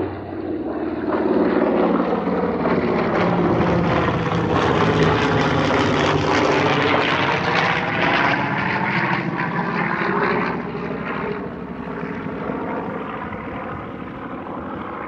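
B-25 Mitchell bomber's twin radial engines and propellers passing close overhead, swelling to a loud peak in the middle and then fading away over the last few seconds, the pitch sliding as it goes by.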